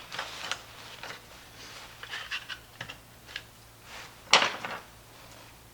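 Plastic pry tools levering at a small blower fan's press-fit plastic housing: scattered light clicks and scrapes, with one sharp snap about four seconds in.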